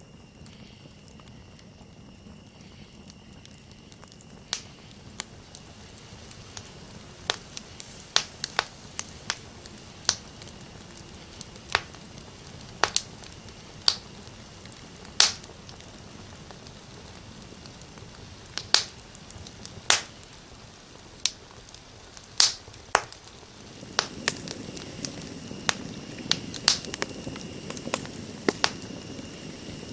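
Campfire crackling, with sharp irregular pops coming every second or two, over a steady high insect trill. About 24 seconds in, the background grows louder and a higher insect buzz joins.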